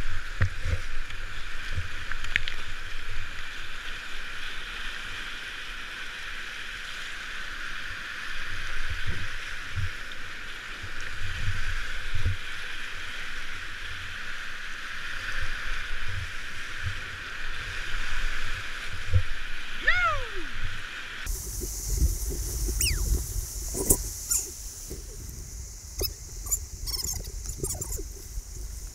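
Rushing river water around a kayak, with wind or water buffeting the microphone in low thumps. About two-thirds through, the sound changes abruptly to a sharper hiss with clicks and splashes.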